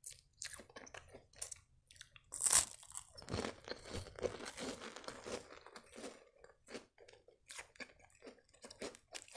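A crunchy cream-filled sandwich biscuit being bitten and chewed. There is a sharp crunch about two and a half seconds in, then a couple of seconds of dense crunching as it is chewed, then scattered small crunches.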